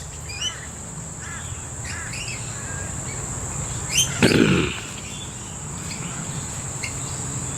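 Mixed birds calling in short chirps with a steady high whine and a low hum beneath. A louder, harsher sound comes about four seconds in.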